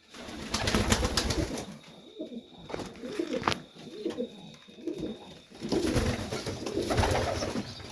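Serbian highflyer pigeons cooing in a loft, with scattered clicks and rustling among the birds.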